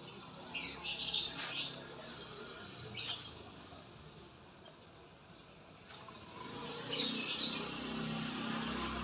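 Murai songbird singing in quick runs of short high chirps and trills. A low hum builds under it about two-thirds of the way in.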